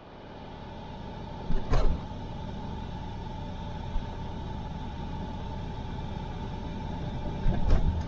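Steady engine and road noise inside a truck cab while driving, with a few brief knocks about two seconds in and again near the end.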